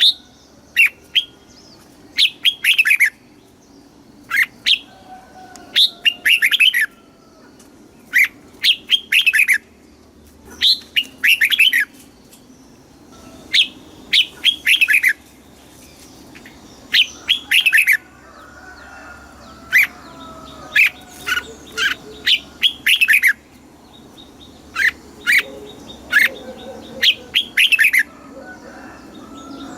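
Red-whiskered bulbul singing: short phrases of a few whistled notes, repeated every second or two in bouts with brief pauses between.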